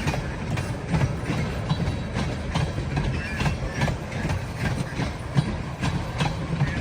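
Freight train cars rolling past, steel wheels clicking over rail joints a few times a second over a steady low rumble.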